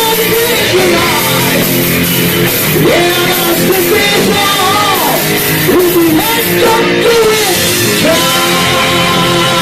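Live metal band playing a song at full volume, with singing over loud rock instruments.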